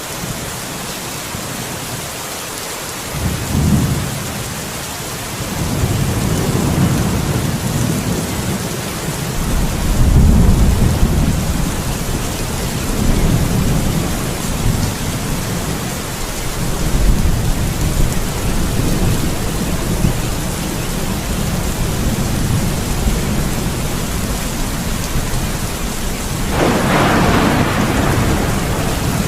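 Steady heavy rain with rolling thunder. A short rumble comes about three seconds in, then long low rumbling from about six seconds on, and a sharper, nearer thunderclap near the end.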